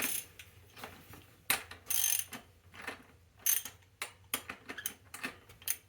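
Socket ratchet and loose metal sockets being handled: irregular metal clicks and short clinking clatters.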